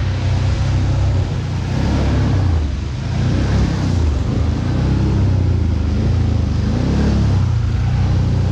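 ATV engine running under changing throttle, its pitch rising and falling as it revs.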